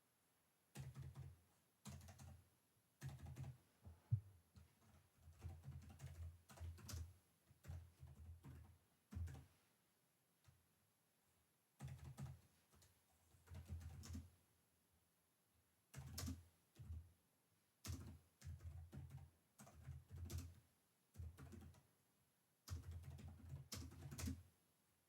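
Typing on a computer keyboard in runs of quick keystrokes, each with a soft low thud, broken by short pauses, the longest near the middle and about two thirds of the way through.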